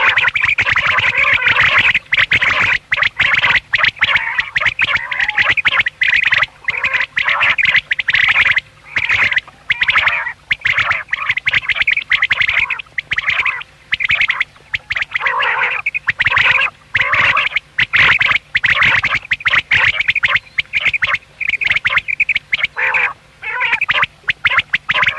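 Quail calling loudly and almost without pause, in rapid chopped bursts with many short breaks.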